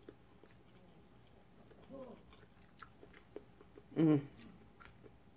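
A woman chewing a mouthful of food, with small mouth clicks. A short hummed "mm" comes about two seconds in and a louder, brief one about four seconds in.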